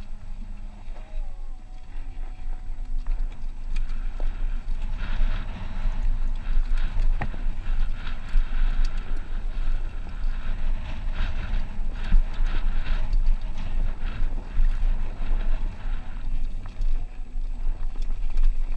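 Wind buffeting the action camera's microphone while riding a Honda CRF250R motocross bike, with the bike's engine running underneath.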